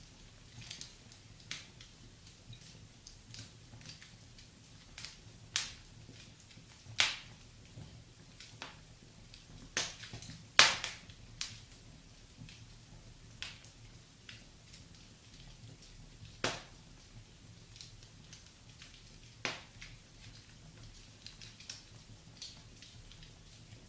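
Fireplace fire crackling, with irregular sharp pops scattered through it. The loudest pop comes about ten seconds in.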